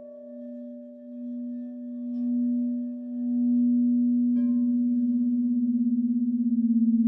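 Crystal singing bowls ringing: a low bowl's tone swells and fades in slow waves, and a second, higher bowl is struck about four seconds in and rings on over it with a slow beating.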